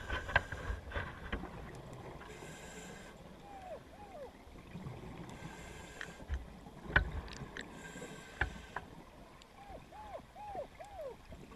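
Scuba diver breathing through a regulator underwater, exhaled bubbles rushing out about every three seconds. Between the breaths come sharp clicks and knocks, the loudest near the start and about seven seconds in, and a few short falling squeaks.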